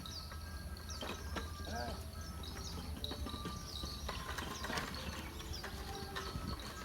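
Small birds chirping over and over in short falling calls, with scattered clicks and a steady low hum underneath.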